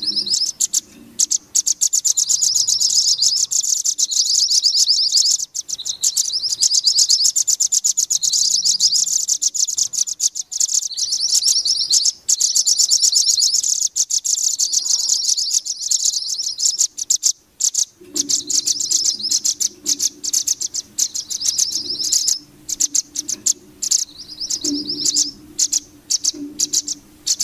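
Looped bird-lure recording of mantenan (scarlet-headed flowerpecker) calls mixed with velvet-fronted nuthatch calls: rapid, high-pitched chirping trills repeated almost without pause. A faint low hum joins about two-thirds of the way through.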